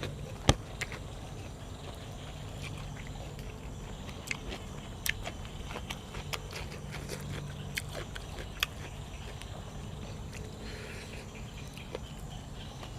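A person eating cuttlefish with dipping sauce and fresh vegetables: chewing, with irregular sharp clicks and taps. The loudest click comes about half a second in, all over a steady low hum.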